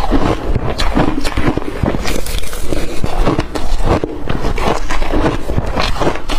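Blended crushed ice being chewed close to the microphone: continuous wet crunching made of many small irregular crackles.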